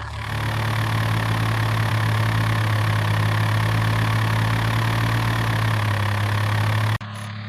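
A vehicle engine idling with a steady low hum. It cuts off abruptly near the end and a quieter engine sound carries on.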